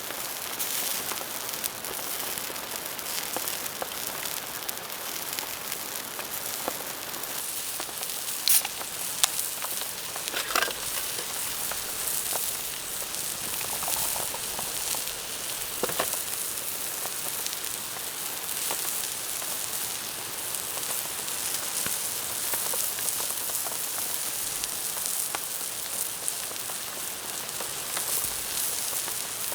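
Steady hiss of rain falling, with a few sharp crackling pops at intervals.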